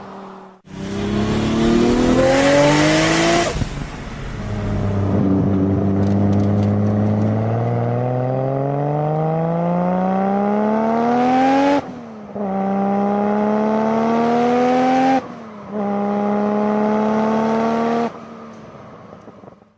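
Turbocharged car engine accelerating hard through the gears, its pitch climbing steadily and dipping briefly at three gear changes, with a loud burst of hiss early on.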